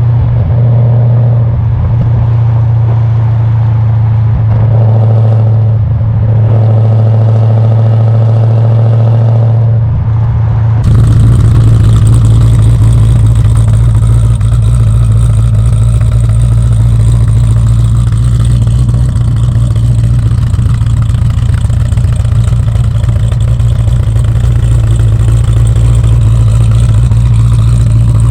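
Cammed 6.4-litre Hemi V8 of a Jeep Grand Cherokee SRT running steadily through Stainless Works headers and exhaust, a deep even drone. About eleven seconds in the sound shifts and a steady rushing noise joins underneath the engine.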